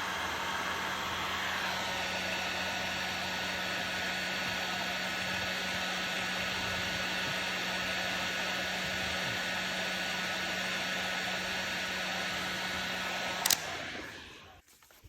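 Heat gun blowing steadily with a low hum, then switched off with a click near the end, its fan running down.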